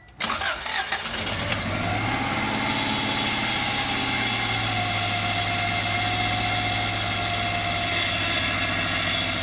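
Turbocharged Subaru Legacy's flat-four engine starting up on freshly fitted headers: it fires right at the start, rises in revs over the first two seconds, then settles into a steady idle. The owner thinks there is still an exhaust leak somewhere.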